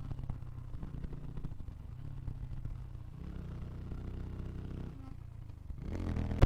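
Motorcycle engine running at low revs, its note stepping up briefly about three seconds in and settling back near five seconds.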